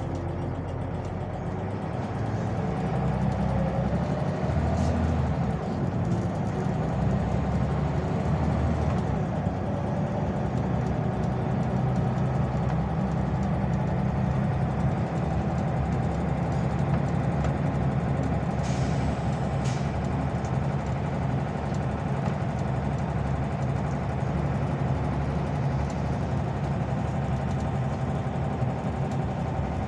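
Scania OmniLink CL94UB city bus's diesel engine running steadily as the bus drives, its pitch rising around four seconds in. A brief high hiss about nineteen seconds in.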